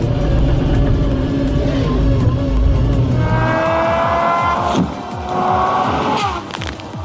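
An engine running with a heavy low rumble. About three seconds in it gives way to a whine that climbs steadily in pitch.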